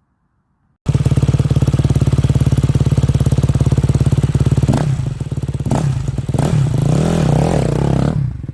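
KTM dirt bike engine running loud, cutting in suddenly just under a second in; from about five seconds in it is revved several times, the pitch rising and falling, before it drops away near the end.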